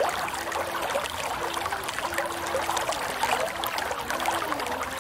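Water trickling and burbling in a small stream or channel, a steady splashy rush. A faint melody of held low notes sounds softly underneath.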